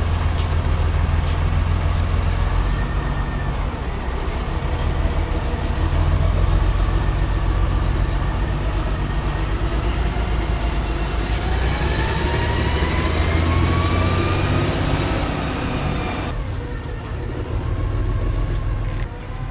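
Semi-truck diesel engine running steadily with a deep rumble; a rising whine builds up past the halfway point, then the sound changes abruptly a few seconds before the end.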